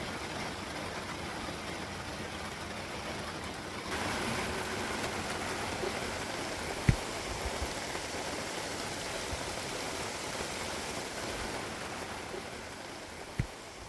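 Steady rain falling, a hiss that gets a little louder about four seconds in, with two short dull knocks, one midway and one near the end.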